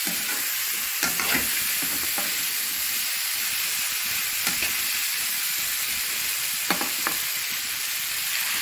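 Diced potatoes in chilli masala sizzling steadily in oil in a kadai, with a spatula scraping against the pan a handful of times as they are stirred.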